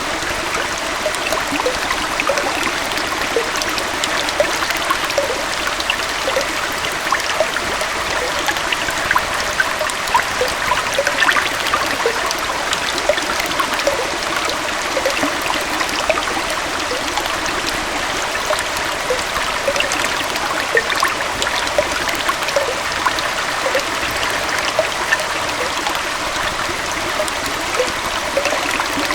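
Small forest waterfall and stream flowing steadily: an even rush of water with frequent small bubbling, trickling plinks.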